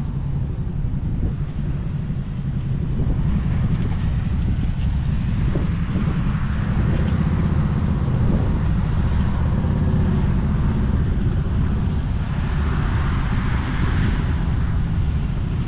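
Steady low rumble of vehicles, with a rushing noise that swells up twice, about seven and thirteen seconds in.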